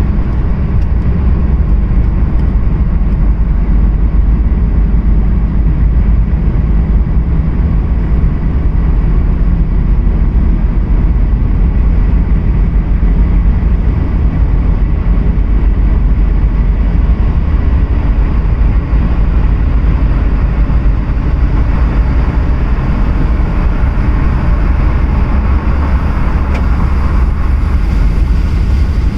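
A moving car's steady rumble of tyres on the road and engine noise, loud and unchanging throughout.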